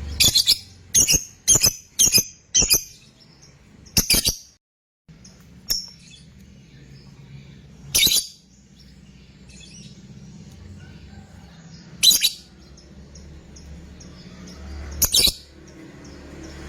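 Lovebird giving short, shrill calls: a quick run of about five in the first three seconds, then single calls about every four seconds.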